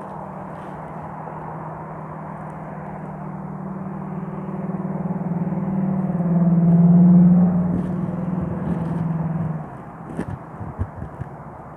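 A motor vehicle's engine running with a steady hum, growing louder to a peak about seven seconds in, then dropping away suddenly near ten seconds. A few light knocks follow.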